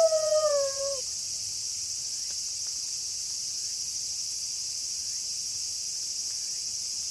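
A wolf howl trails off, dropping in pitch, in the first second. It leaves a steady, high-pitched chorus of night insects that holds an even level.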